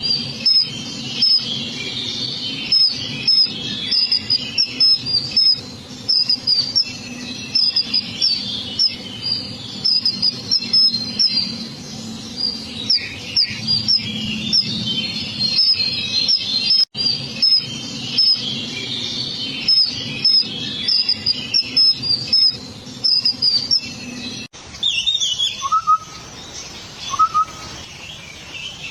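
Small birds chirping in a busy chorus of quick, high chirps repeated in rapid runs, over a steady low background noise. About 25 seconds in the chorus drops away to a few lower calls that slide upward.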